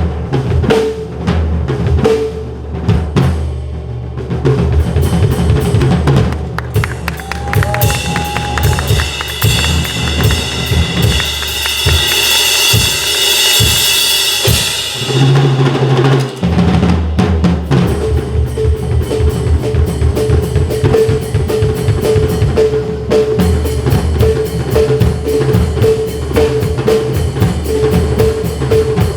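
Drum kit played in drum sanjo style: dense, fast strokes on bass drum, snare and toms, with rolls and rimshots. A loud cymbal wash swells about eight seconds in and dies away around fifteen seconds.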